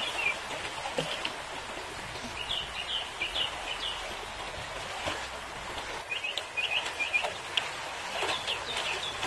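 A small bird chirping in short runs of quick, high notes, three times, over a steady background hiss.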